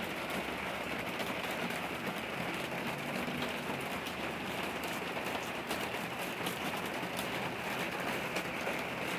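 Steady rainfall, an even hiss with many fine drop ticks of rain falling on the ground and nearby surfaces.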